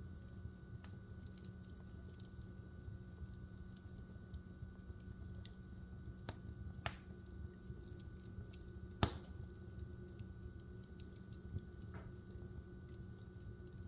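Logs burning in a wood fireplace, crackling with scattered small snaps over a low steady rumble and hum, and one loud pop about nine seconds in.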